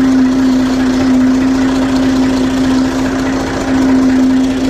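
Massey 35 tractor's diesel engine running steadily at low revs as the tractor reverses slowly, with an even pitched hum over the engine's pulsing.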